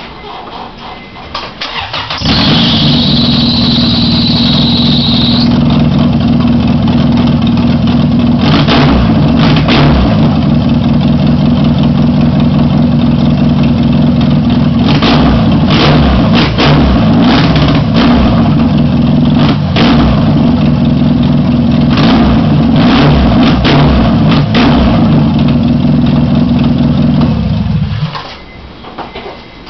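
Honda H22A1 2.2-litre four-cylinder engine, swapped into an Integra, on its first start: after a couple of seconds of cranking it catches and runs loudly and steadily for about 26 seconds, then shuts off abruptly near the end. A high whine rides on it for its first three seconds of running.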